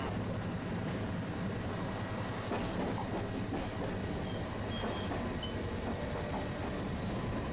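Tosaden streetcar running along its track, heard from inside the car: a steady rumble of wheels on rail, with a few light knocks a few seconds in.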